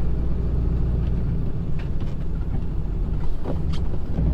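Snow plow truck's engine running steadily while pushing snow in four-wheel drive, with a few faint knocks; the engine note changes near the end.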